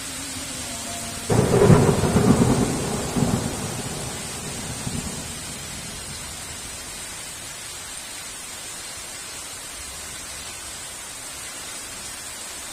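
A clap of thunder breaks in about a second in, a sudden crack followed by a few rolling rumbles that die away over the next few seconds. Steady heavy rain continues throughout.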